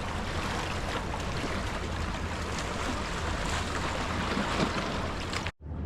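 Water splashing and lapping around a kayak on open water, a steady rushing noise with small scattered splashes, which cuts off suddenly near the end.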